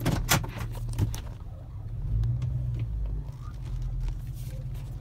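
2007 Chevy Tahoe's V8 engine idling with a steady low hum. A few sharp clicks and knocks come in the first second.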